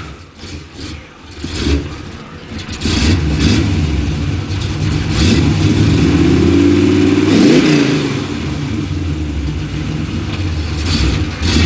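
Chevrolet Monte Carlo's 350 small-block V8 with a Comp 280H cam running through its exhaust: quiet for the first couple of seconds, then picking up, revved with a rise in pitch peaking about two-thirds of the way through, then dropping back to a choppy idle.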